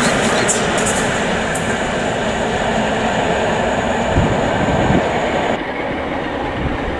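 Diesel-hauled passenger train with a class 47 locomotive running away along the line: a steady rumble of wheels on rail, with some sharp clicks in the first second and a half. About five and a half seconds in the sound changes abruptly to a quieter, more distant train noise.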